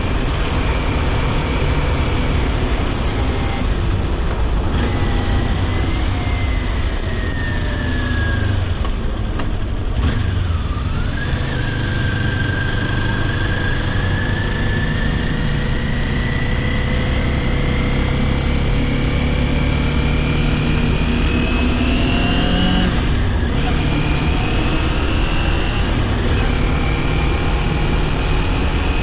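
Kawasaki Ninja 400 parallel-twin engine pulling the bike along. The revs sink for a few seconds, then climb slowly and steadily for about ten seconds. Near the end they drop briefly and settle into a steadier run.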